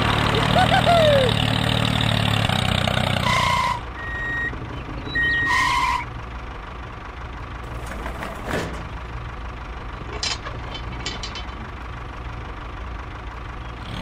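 Miniature tractor's engine sound running low and steady for the first few seconds, with a few squeaky chirps over it, and two short beeps about three and five and a half seconds in. It then drops away, leaving a single sharp click about eight and a half seconds in and a quick run of light clicks a couple of seconds later, as the toy trailer is hitched on by hand.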